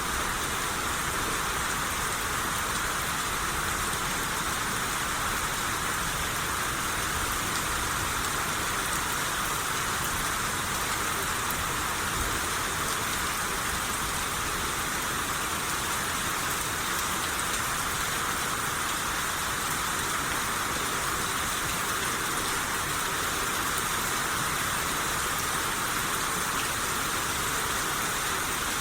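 Steady rainshower: even hiss of rain falling on a surface, with no let-up or change.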